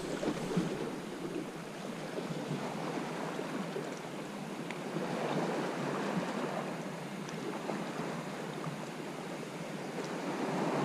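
Sea waves washing on the shore: a steady rushing wash that swells a little about halfway through.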